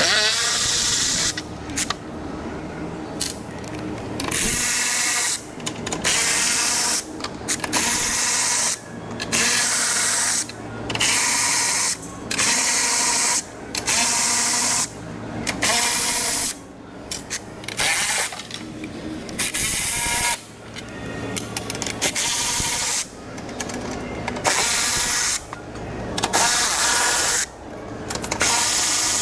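Milwaukee Fuel cordless ratchet running in repeated short bursts, about a second each and a second or two apart, as it spins off 10 mm nuts. It is played back at double speed, so its whir is sped up and higher than normal.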